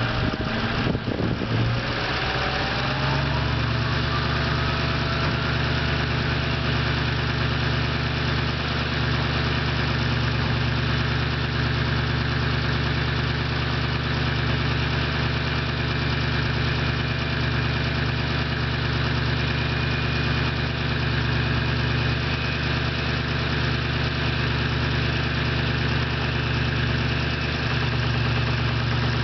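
Straight-piped 6.0 Power Stroke V8 turbo diesel in a 2003 Ford F-350, idling steadily after a cold start. A whine rises in pitch over the first few seconds. One cylinder runs a little unevenly, which the owner believes is a worn exhaust lobe on the camshaft.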